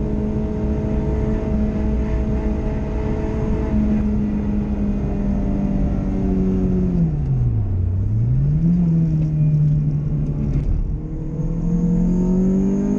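Car engine heard from inside the cabin while driven at speed: the note holds steady, then drops steeply about eight seconds in as the revs fall, and climbs again as it accelerates. A constant rush of road noise runs under it.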